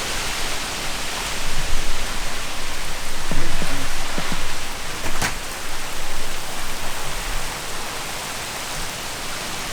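Heavy thunderstorm rain pouring down in a steady, dense hiss, with a single sharp click about five seconds in.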